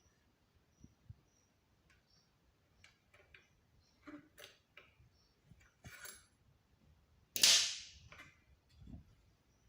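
Scattered light clicks and knocks, like small hard objects being handled on a hard surface, with one much louder sharp knock about seven and a half seconds in.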